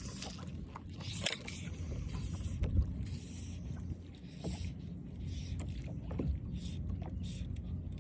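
Water lapping against a kayak's hull over a steady low rumble, with scattered small knocks and splashes.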